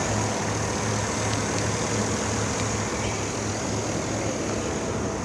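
A 2011 GMC Yukon Denali XL's 6.2 litre Vortec V8 idling steadily with the hood open, a low even hum.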